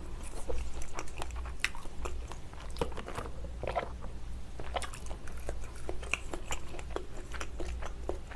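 Close-miked chewing and wet mouth sounds of someone eating malatang, a stream of small clicks and smacks, with a sip from a glass about four seconds in.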